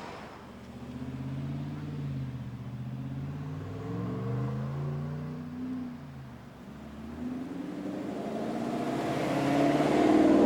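A car engine accelerating, its pitch rising and falling a few times as it revs. The engine sound then builds louder toward the end.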